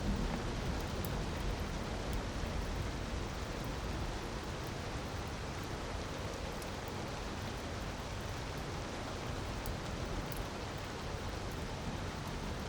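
Steady rush of falling water, an even hiss with no rhythm, with a few faint crackles from a wood fire.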